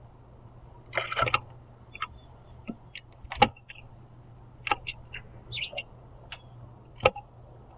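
Birds feeding on a platform bird feeder: irregular sharp taps and clicks of beaks pecking at seed and feet landing on the tray. A cluster of taps comes about a second in, with single loud ones near the middle and near the end.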